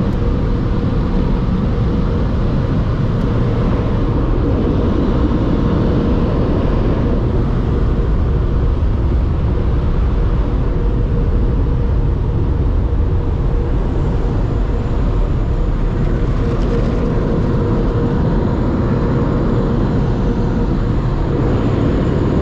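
Automatic tunnel car wash equipment running steadily: a loud, even rush of noise with a constant hum underneath.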